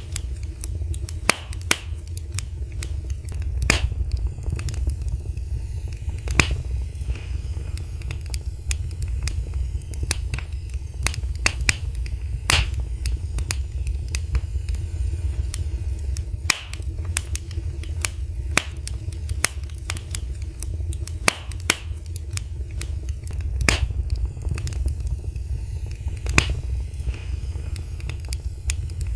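Wood fire in a fireplace crackling: sharp pops and snaps at irregular intervals, several a second, over a steady low rumble of the flames.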